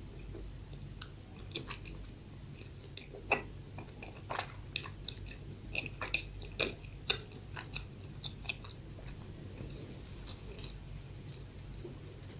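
Close-miked chewing of soft bread: a run of short, wet mouth clicks and smacks, busiest in the middle seconds and thinning out toward the end, over a steady low hum.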